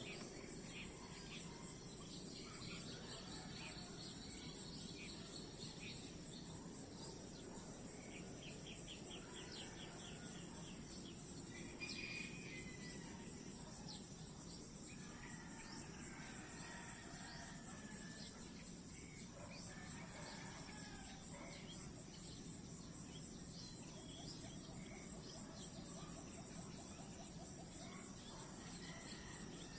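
Steady high-pitched insect chorus, finely pulsing, with scattered short chirps and trills over it.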